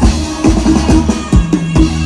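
Amplified Thai procession-band music led by a drum kit, with a steady beat of about two bass-drum hits a second over a bass line.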